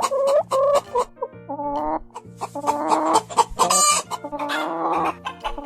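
Chicken calls, hen clucking in a run of short pitched calls, over a simple background music track.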